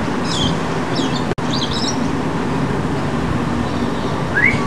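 Small birds chirping in short high calls several times, with a single rising chirp near the end, over a steady low background hum. The sound drops out for an instant a little over a second in.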